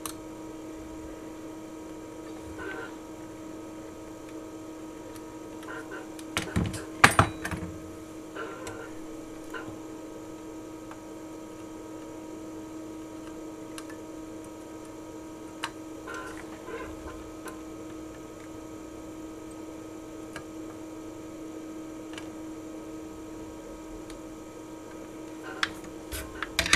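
Steady electrical hum at a repair bench, with scattered sharp clicks and clatters of tools and parts during soldering work. The loudest clicks come in a cluster about seven seconds in, with more near the end.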